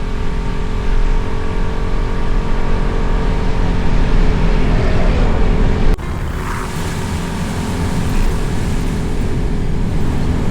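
Motorcycle running at road speed, its engine drone mixed with heavy wind noise on the microphone. The sound drops suddenly in level about six seconds in, then builds again.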